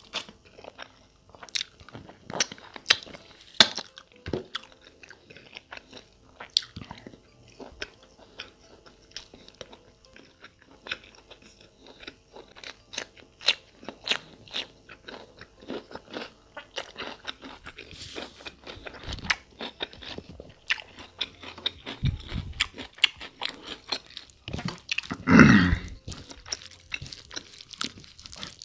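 Chewing and wet smacking as mutton curry and rice are eaten by hand, with crunchy bites of raw cucumber. One louder sound of about half a second comes near the end.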